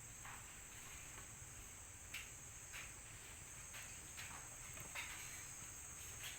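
Insects, likely crickets, chirring in a steady high hum, with a few scattered soft taps.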